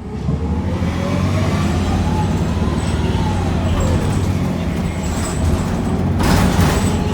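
Interior sound of a NABI 45C bus under way: the Cummins Westport L9N natural-gas engine and Allison six-speed transmission running with a steady low rumble, while a whine rises and then falls off about three to four seconds in. A short burst of hiss comes about six seconds in.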